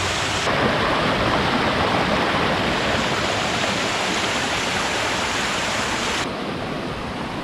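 Creek water rushing steadily over rocks. The rush shifts abruptly in tone about half a second in and again near the end.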